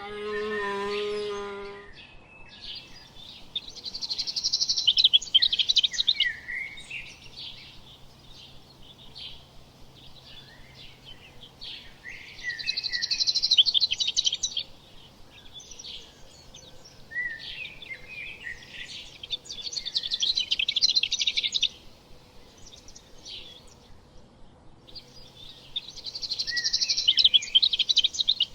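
A farm animal's wavering call for the first two seconds, then a songbird singing in four loud bursts of rapid high chirps several seconds apart, with scattered softer chirps between them.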